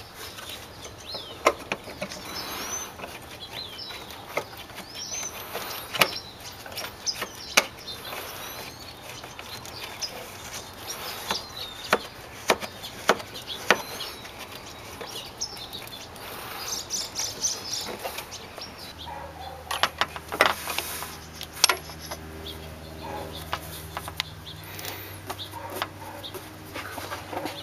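Birds chirping over scattered clicks and knocks of hand work. About two-thirds of the way through, a steady low hum starts and keeps going.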